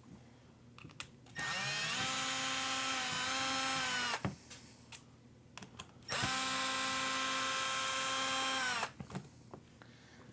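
Cordless electric drill-driver turning screws, with two runs of about two and a half seconds each. The motor whine rises in pitch as the driver spins up and drops as it stops, with small clicks between the runs.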